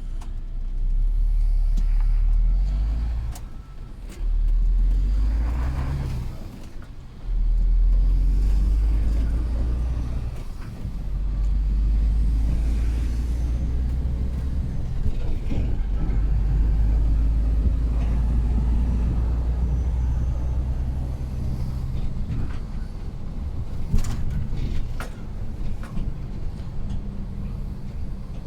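Heavy truck running on the road, its engine a strong low rumble that drops off briefly twice in the first seven seconds and picks up again, then carries on steadily.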